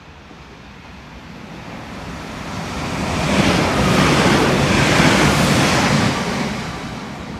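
A train passing through the station, its noise swelling steadily to a loud peak a few seconds in, then fading away.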